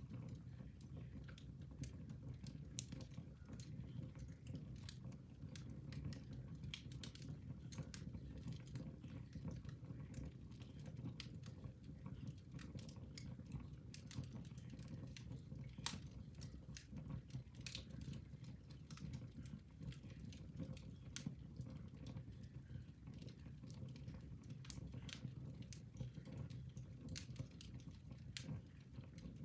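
Fire burning in a fireplace, crackling: irregular sharp pops and snaps scattered throughout, over a low steady rumble.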